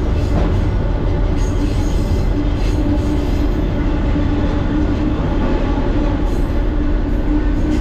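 Freight train rolling at speed, heard from on board: a loud, steady rumble of wheels on rail with a faint steady whine running above it.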